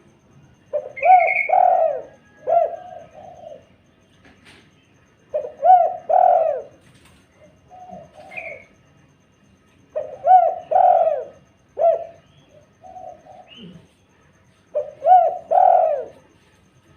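Spotted dove (tekukur) cooing: four phrases of several coo notes, repeating about every five seconds, played as a calling sound to lure other doves into answering. A few short high chirps from another small bird come between the phrases.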